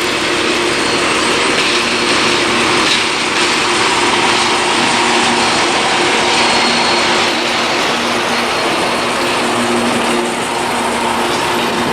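A ČKD T448p diesel locomotive running as it pulls a train of empty hopper wagons, its engine drone steady. The empty wagons rattle and clank as they roll.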